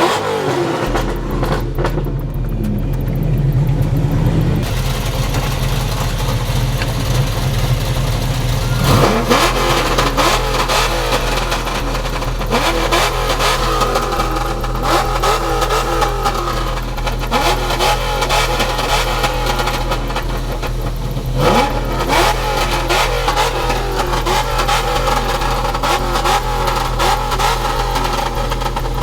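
Car engine running steadily, with quick revs that rise in pitch three times: near the start, about 9 seconds in, and about 21 seconds in.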